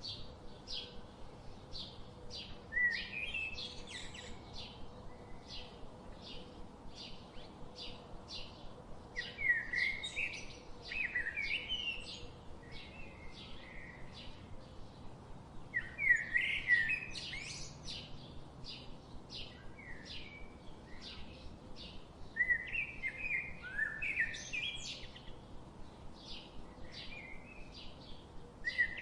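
Songbirds singing: one bird repeats a short high chirp about twice a second throughout, while louder warbling song phrases break in every few seconds.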